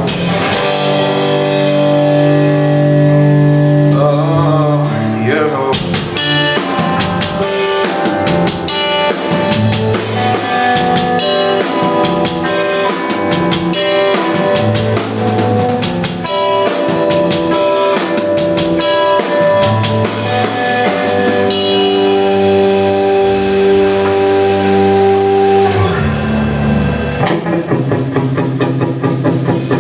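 Live rock band playing an instrumental passage: held electric guitar chords over a full drum kit, with kick, snare and rimshot hits.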